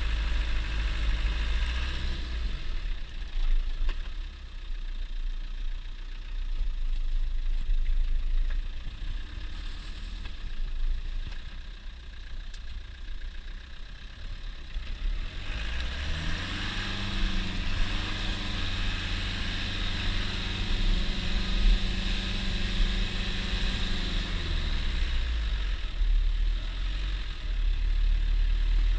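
Land Rover Defender 90 engine running on the trail. About halfway through, the revs rise and hold higher for several seconds, then drop back near the end.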